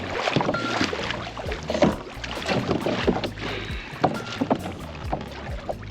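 Irregular knocks, clatter and water sloshing on a pedal kayak under way, with a steady low hum beneath.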